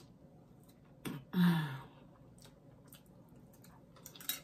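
Quiet eating sounds: a person chewing with a few faint clicks, and a short hummed vocal sound, falling in pitch, about a second in.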